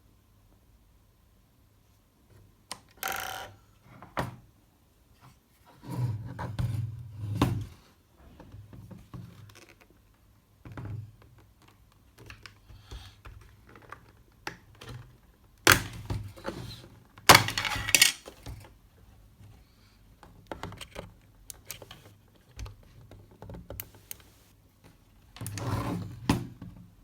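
Handling noise: irregular knocks, clicks and short scrapes, loudest about two-thirds of the way through, over a faint low hum.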